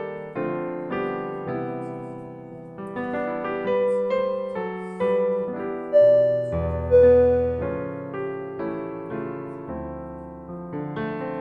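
Background music: slow, gentle solo piano with notes struck about twice a second, each dying away.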